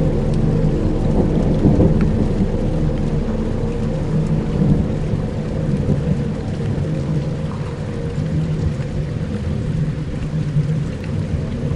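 Dark ambient soundscape: low sustained drones layered over a steady rumbling, rain-like wash of noise with occasional faint ticks.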